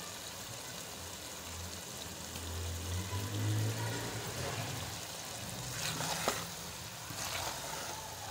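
Cabbage and mutton curry sizzling gently in a metal pot, with a low droning hum that swells and fades in the middle. About six seconds in, a spoon clicks and scrapes against the pot as stirring begins.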